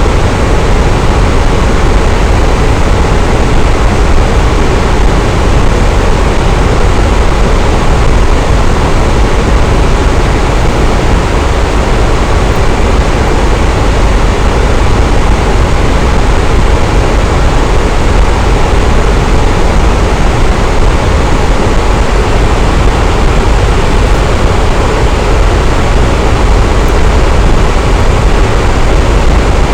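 Electric fan running steadily: a constant airy whoosh with a deep low rumble and no change in pitch or level.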